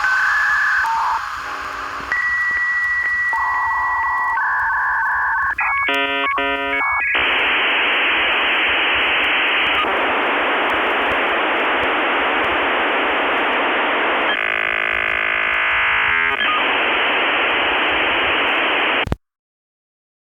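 Dial-up modem connecting over a phone line. Steady beeps and a long answer tone give way to warbling, then a brief burst of rapidly switching tones, then long stretches of loud hiss. It cuts off suddenly near the end.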